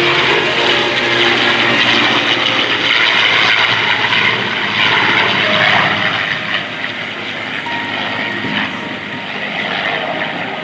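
Piston engines of an F4U Corsair (Pratt & Whitney R-2800 radial) and a P-51 Mustang (Merlin V-12) flying by together: a loud, steady propeller drone that eases a little after about six seconds.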